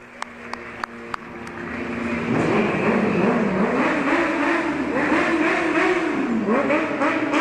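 A few sharp claps, then from about two seconds in a stunt motorcycle's engine revs loudly, its pitch rising and falling with the throttle.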